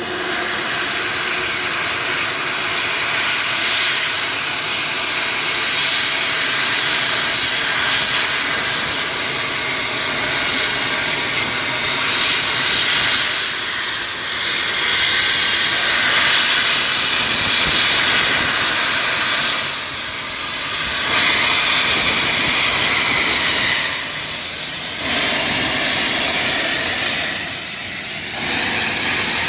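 Steam locomotive hissing steam while running, a loud steady hiss that drops away briefly about four times in the second half.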